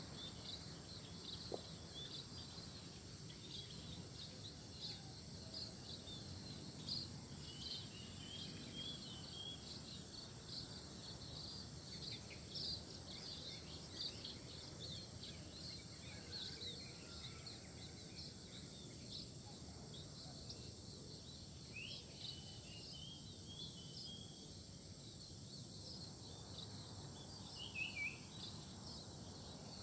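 Small birds chirping: a dense run of short, high chirps throughout, with a few longer falling calls about two-thirds of the way in and near the end, faint against a steady low background noise.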